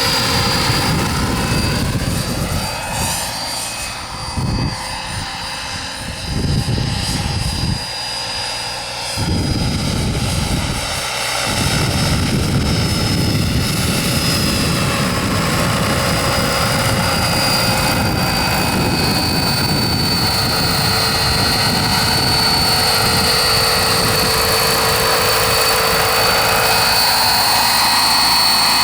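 Wren twin-shaft model gas turbine of a radio-controlled helicopter running in flight: a steady high-pitched turbine whine over the rush of the rotor. The pitch wavers in the first few seconds, and the low rumble cuts in and out several times in the first ten seconds or so before settling into a continuous drone.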